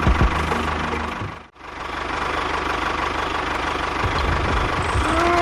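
A motor running steadily, cut to silence for an instant about a second and a half in. A short rising-then-falling tone sounds near the end.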